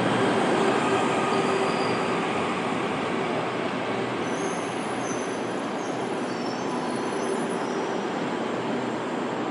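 KTM Komuter electric train running along the platform track, a steady rumble of wheels on rail, with thin high-pitched wheel squeals about halfway through.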